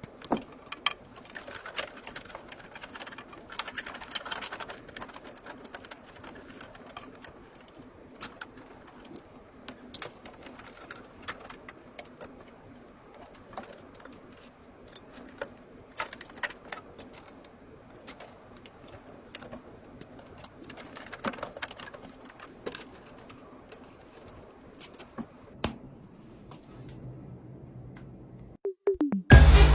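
Irregular light clicks and clatter of small hard objects being handled, with faint room noise; music starts in the last moment.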